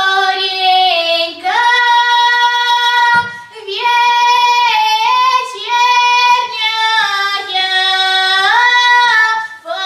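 A child singing a slow Russian folk-style song, drawing out long held notes that slide between pitches, with a short breath about three seconds in.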